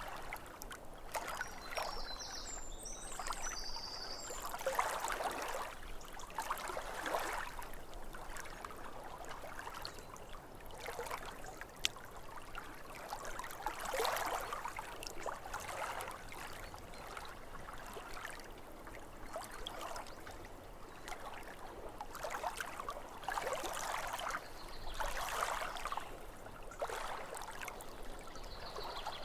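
Small waves lapping at a lake's edge, soft splashing swells that rise and fall every second or two.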